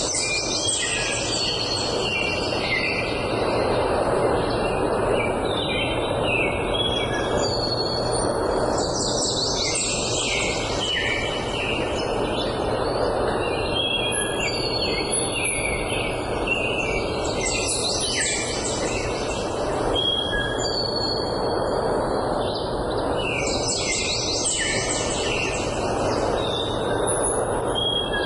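Many songbirds chirping and trilling over a steady rushing noise, the song swelling in waves every several seconds.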